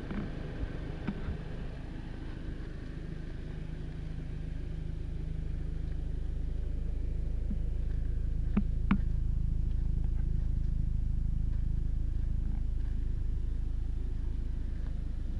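A 2017 Volkswagen GTI's turbocharged 2.0-litre four-cylinder idling while the car stands parked: a steady low hum that grows a little louder partway through, as the sound is heard nearer the rear of the car. Two light clicks come about nine seconds in.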